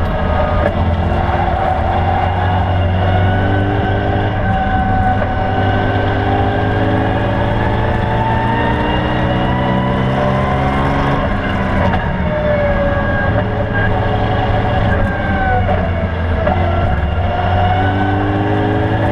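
BMW E92 M3's V8 engine heard from inside the cabin under hard track driving. Its pitch climbs steadily under acceleration, drops off sharply about eleven seconds in as the throttle comes off, then builds again.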